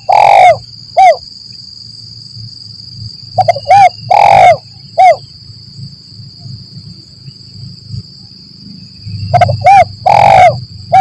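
Spotted dove (tekukur) cooing: three phrases, each of a few short coos and one longer, drawn-out coo, repeating about every five seconds. A steady high-pitched insect-like drone runs underneath.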